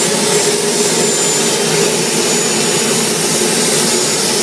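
Jet turbine engine running steadily: an even, loud rush with a thin high-pitched whine held throughout.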